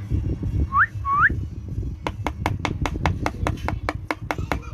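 Indian ringneck parrot giving two short rising whistles, followed by a quick run of sharp clicks, about five a second, over a low rumble.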